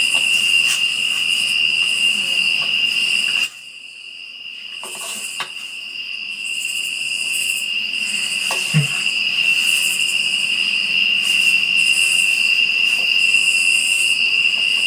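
Crickets trilling in a steady high chorus. About three and a half seconds in, the sound suddenly drops away and then fades back up over a few seconds. A few faint clicks come later.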